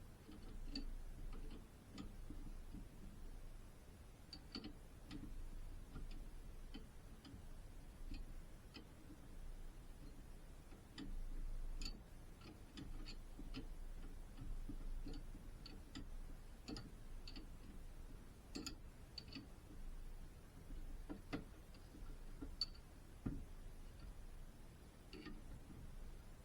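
Irregular light metallic clicks and taps, as of tools and small parts being handled, over a steady low hum, with a few sharper knocks late on.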